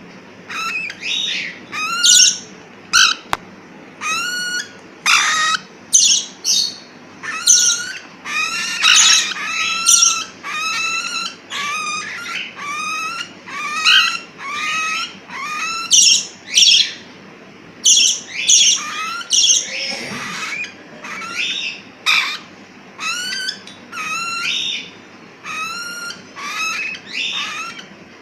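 Baby parrots (pet cockatiel and budgie chicks) calling over and over at feeding time, short calls about one to two a second, many with a quick upward curl in pitch.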